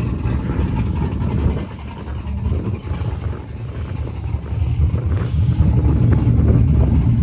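Truck engine with a freshly swapped aftermarket performance cam, running at idle while its tune is being dialed in. Wind buffets the microphone.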